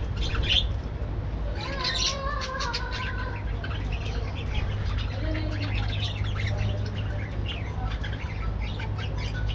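A colony of budgerigars chattering, with many quick chirps, short squawks and a stretch of warbling about two seconds in, over a steady low hum.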